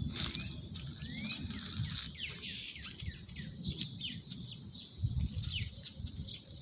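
Small songbirds chirping: a rapid string of short, falling chirps, with a few rising whistled notes in the first second or two, over a low rumble.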